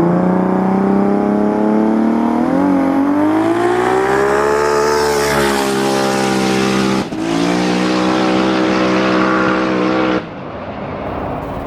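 Race car engine at full throttle, its note climbing and then falling. It breaks off briefly about seven seconds in, then carries on steadily before stopping abruptly about ten seconds in.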